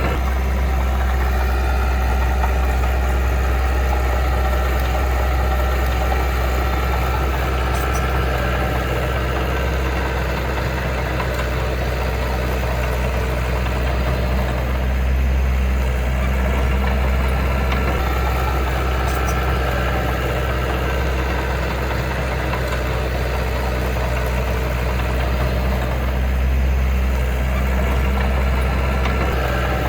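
A heavy earth-moving machine's diesel engine running steadily with a deep, even hum.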